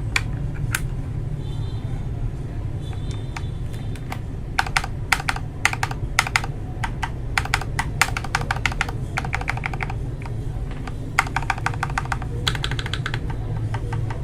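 Mechanical keyboard fitted with lubed Akko Matcha Green switches being typed on: a few separate keystrokes at first, then quick runs of key clacks from about four seconds in, over a steady low hum.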